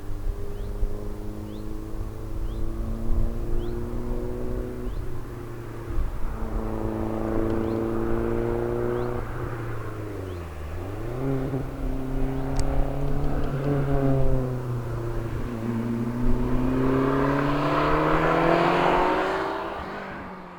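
Lancia Delta Integrale HF's turbocharged four-cylinder engine pulling under load, its pitch climbing slowly. About ten seconds in the note drops briefly and comes back, then climbs again and grows louder before fading out at the end.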